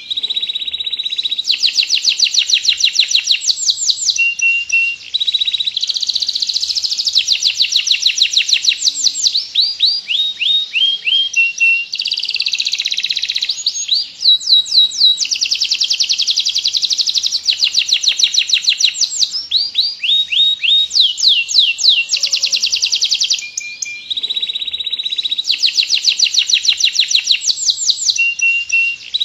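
Domestic canary singing on and on in long rolling trills: fast runs of the same short note repeated many times, some runs sliding up or down in pitch, broken only by a few short pauses between phrases.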